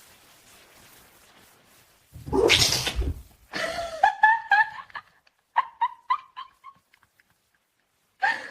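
A pet animal vocalising: a loud breathy burst about two seconds in, then a run of short high-pitched cries that rise and break off, and one more brief cry near the end.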